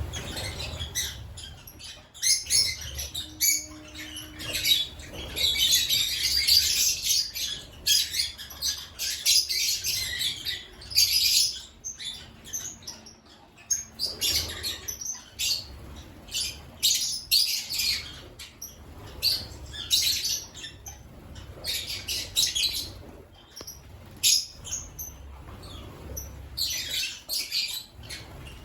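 African lovebirds chirping and chattering: many short, high-pitched calls, overlapping and nearly continuous.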